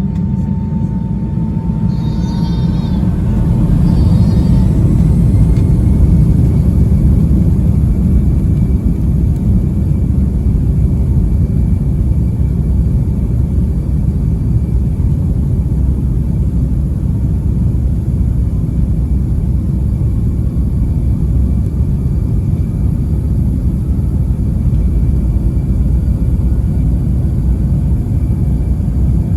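Cabin noise inside a Boeing 757-200 airliner: the deep, steady rumble of its jet engines and rushing air, building over the first few seconds and then holding loud, with a faint thin whine above it.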